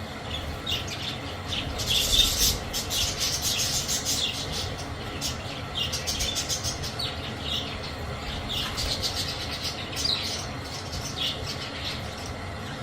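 A flock of budgerigars chattering: many short, high chirps and squawks overlapping, with a dense burst of calls about two seconds in.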